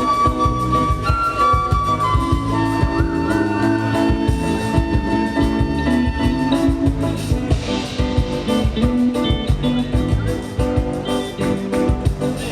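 A live band playing an instrumental passage: held melody notes over guitar chords, bass and a steady beat.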